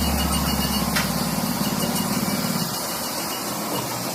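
A motor runs steadily with a fast low pulse over a constant hiss, then cuts off about two and a half seconds in while the hiss goes on.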